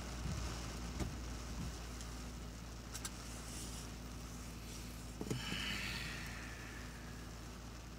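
A car engine idling steadily, heard from inside the cabin, with the hiss of heavy rain on the car. A few light clicks are heard, and a dull thump comes about five seconds in.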